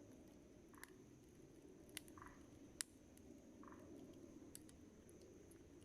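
Wood campfire burning with a faint steady rustle, crackling with four sharp pops, the loudest about three seconds in, and a couple of brief soft hisses from the burning wood.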